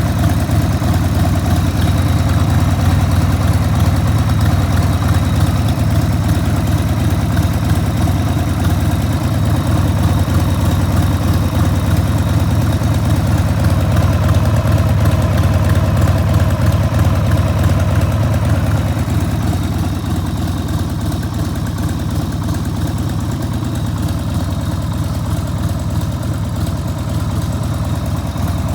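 1994 Harley-Davidson XLH1200 Sportster's 1200 cc Evolution V-twin idling steadily through Screamin' Eagle turnout silencers, a little quieter for the last third.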